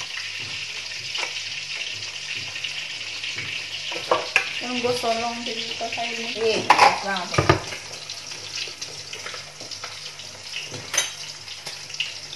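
Chicken pieces frying in hot oil in a pan, a steady sizzle. A short stretch of a voice and a few light knocks come between about four and eight seconds in.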